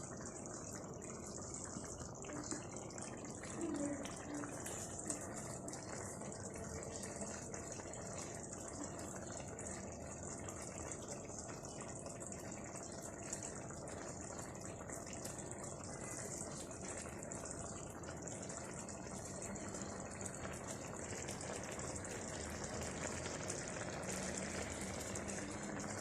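Paella of rice, seafood and vegetables simmering in its pan, the broth bubbling and sizzling steadily and faintly as the rice cooks.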